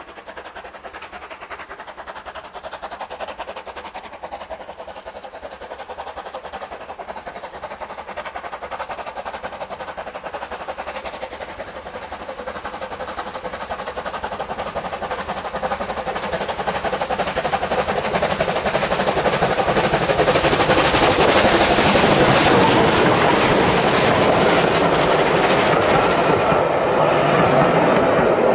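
A steam-hauled train approaching, its noise of wheels on rail and rapid rhythmic clatter building steadily and loudest in the last third.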